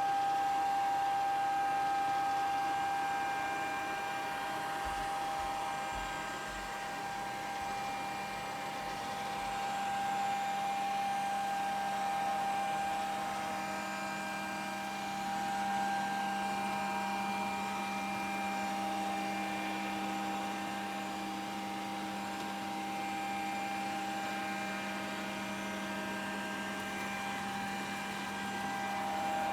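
Grundig VCR 2131 robot vacuum cleaner running: a steady motor whine with a few higher tones over a rushing hiss, swelling and fading slowly in loudness as it moves about.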